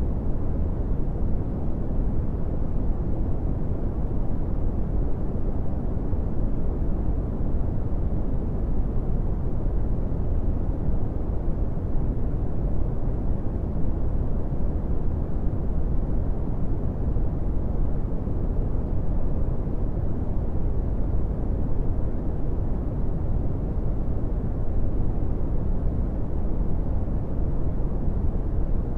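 Brown noise: a steady, deep rumble of noise, heaviest in the low end and rolling off toward the highs, unchanging throughout.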